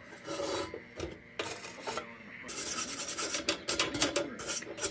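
Scraping and rubbing on the painted tin of an old lantern to take the paint off: two separate strokes, then a quick run of short strokes from about halfway.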